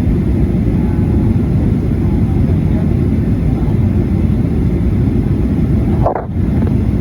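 Steady low rumble of a Boeing 737-800's engines and airflow heard inside the cabin in flight, with a brief dip and a short higher sound about six seconds in.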